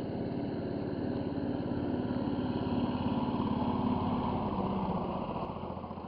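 Small boat engine running steadily at low speed, then slowing and dying down near the end.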